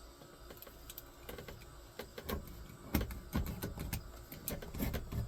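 Irregular knocks and clicks of boards and tools being handled. Sparse at first, busier and louder from about two seconds in, with a sharper knock near the middle.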